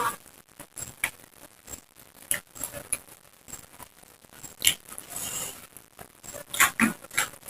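Close-up eating sounds: irregular crunches, wet chewing and mouth clicks of someone chewing raw vegetables and rice, with a few sharper crunches a little before five seconds in and again near the end.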